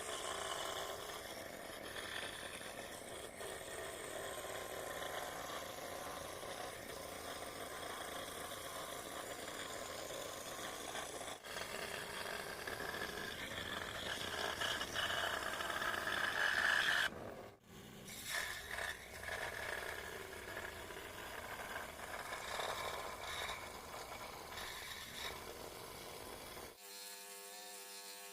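Small electric motor buzzing, its pitch and loudness shifting as it works; near the end it changes to a steady, even hum.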